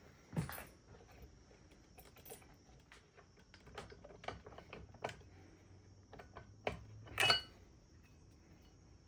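Scattered small clicks and knocks of metal tools and engine parts being handled, with a louder metallic clink that rings briefly about seven seconds in.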